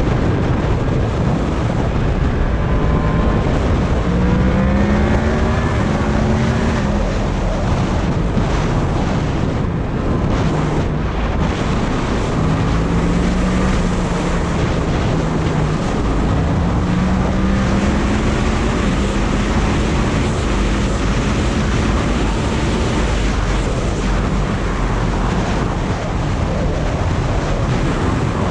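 Heavy wind noise battering the microphone at riding speed. Beneath it runs the engine of a Yamaha MT-10, a crossplane inline-four, rising in pitch several times as it accelerates.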